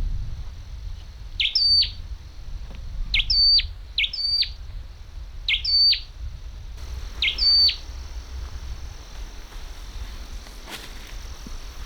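A bird calling five times, each call a short quick upward sweep that levels off, spaced one to two seconds apart. A low steady rumble runs underneath.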